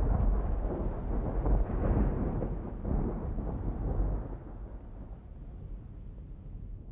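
Rolling thunder rumbling low and gradually fading away.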